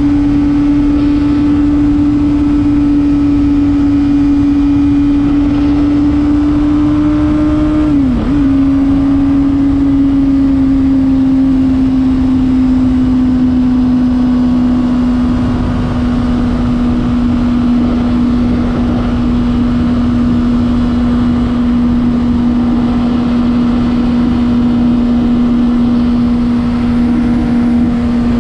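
Honda CBR600RR's inline-four engine running at high, steady revs under way, with wind rush underneath. The pitch dips sharply for a moment about eight seconds in, recovers, then eases slowly lower.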